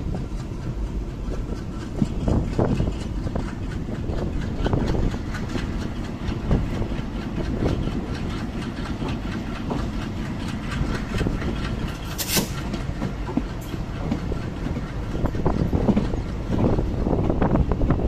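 A moving passenger train heard from on board: a steady rumble with wheels clicking and clattering over the rails, and a short hiss about twelve seconds in.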